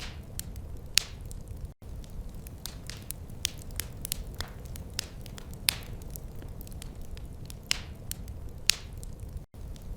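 Wood fire crackling in a fireplace: irregular sharp pops and snaps, a few each second with a handful of louder ones, over a steady low rumble of the flames.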